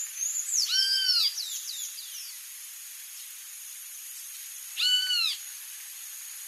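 Songbirds calling at a feeder: two arched call notes about four seconds apart, the first with a quick run of thin, falling whistled notes, over a steady high hiss.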